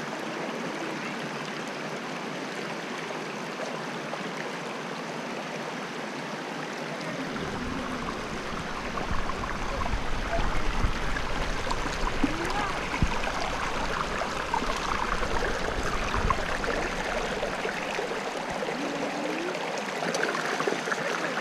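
Steady rush of flowing stream water. A low rumble joins in about a third of the way through and drops away again a few seconds before the end.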